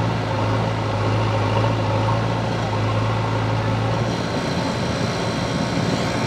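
Eicher 551 tractor's diesel engine running steadily with a deep, even hum while pulling a loaded trolley. About four seconds in the engine note changes and its lowest hum drops away.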